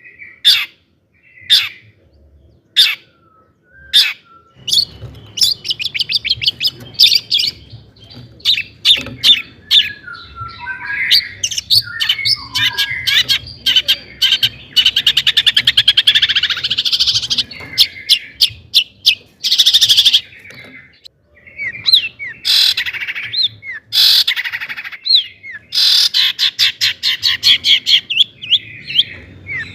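Long-tailed shrike singing: sharp single calls about once a second, then from about four seconds in a fast, continuous chattering song of harsh notes, trills and mimicked phrases of other birds.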